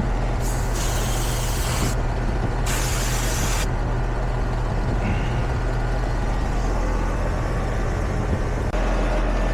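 Air-conditioning condenser unit running with a steady low hum while refrigerant is added, with two short bursts of hissing gas about half a second and two and a half seconds in. The hum gets louder near the end.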